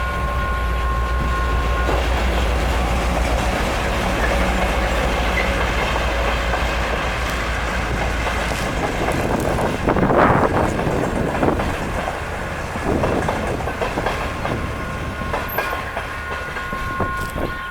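Commuter train passing, with a low rumble and wheels clicking over the rail joints, growing louder about halfway through. A steady high two-note tone sounds at the start and again near the end.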